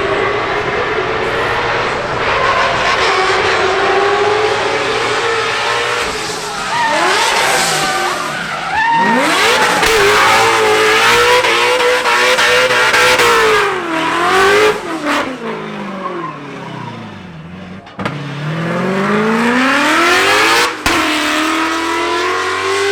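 High-performance car engine revving hard, its pitch climbing and dropping again and again, sinking low about two-thirds of the way through, then climbing steeply once more.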